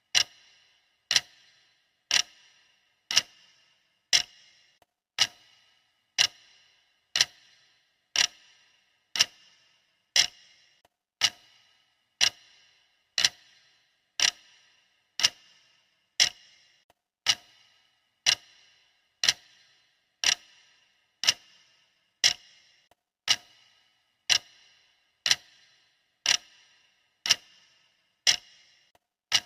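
Clock-style ticking of a countdown timer, one sharp tick a second, each with a brief metallic ring.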